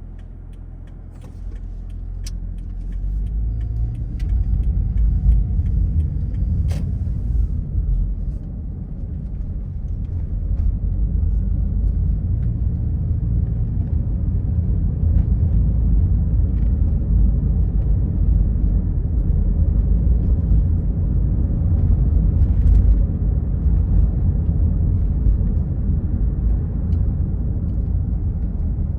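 Car driving along a road: a steady low rumble of road and wind noise that swells over the first few seconds and then holds, with a few light clicks.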